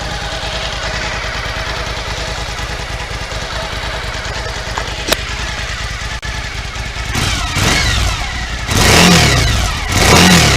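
2014 Suzuki V-Strom 1000's V-twin engine idling through its standard exhaust, then revved with a few throttle blips from about seven seconds in, the last two the longest and loudest.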